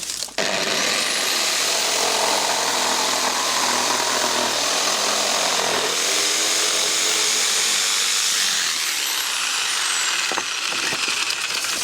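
Electric power saw starting up and cutting through a rough-sawn timber gravel board, its motor whine rising as it starts about half a second in and falling away as it spins down near the end.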